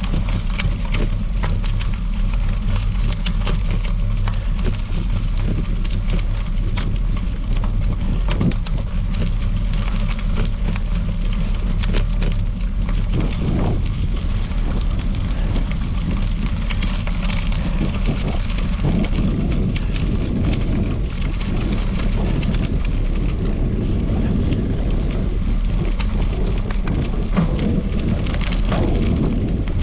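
Wind buffeting the microphone while a bicycle rides over gravel, with crackling tyre noise and scattered clicks and rattles.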